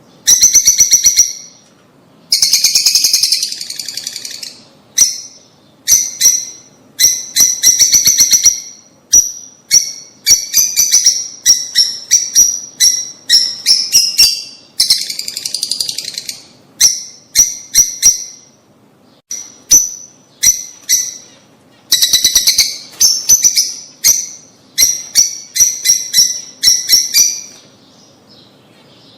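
Lovebirds chirping: shrill, high-pitched chirps in rapid runs, repeating in bursts with short pauses between them.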